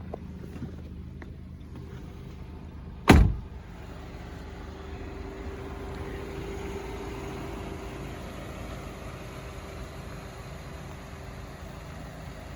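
A car door slams shut once, loudly, about three seconds in, over the steady idle of a 2017 Nissan Rogue SV's 2.5-litre four-cylinder engine.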